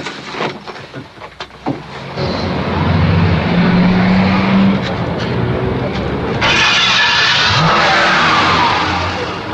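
Car engine running loudly from about two seconds in and revving as the car accelerates away, with a harsh rushing burst about two-thirds of the way through.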